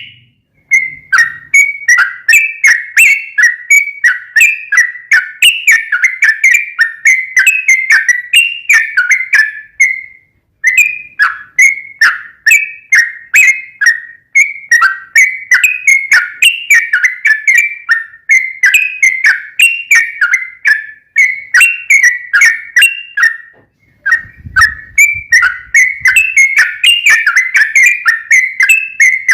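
Yellow-vented bulbul (trucuk) singing a long, fast run of chirping whistled notes, about three a second, broken by a few brief pauses.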